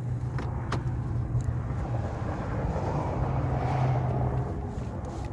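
An engine idling steadily with a low hum, with a couple of light clicks near the start.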